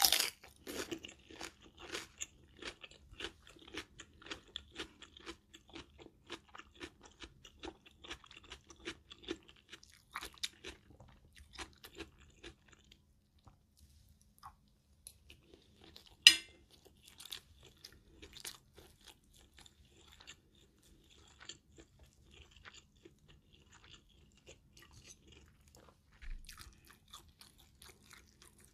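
Close-miked crunching of a bitten raw cucumber slice, dense for the first dozen seconds or so, then sparser chewing of a spoonful of rice and stir-fried minced pork with Thai basil. One sharp click about sixteen seconds in is the loudest sound.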